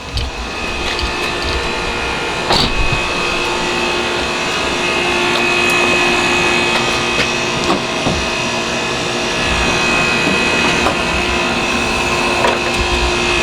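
Steady whirring machine noise with a constant two-note hum, like a running fan or blower, broken by a couple of brief knocks.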